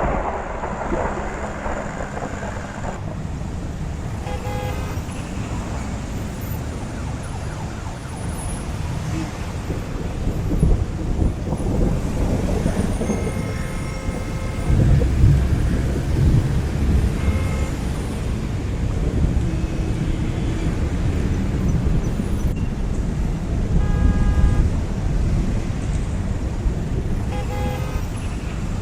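Road traffic: car and truck engines and tyres running in a steady low rumble, with a few short horn toots partway through and again near the end.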